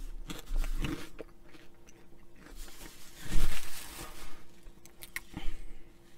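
Crunchy chewing of Flamin' Hot Cheetos. About halfway through there is a longer rustling stretch as a paper napkin wipes the mouth.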